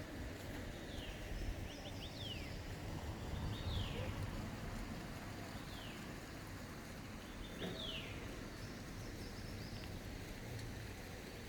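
A bird calling with short, high notes that slide downward, repeated every second or two, over a steady low rumble.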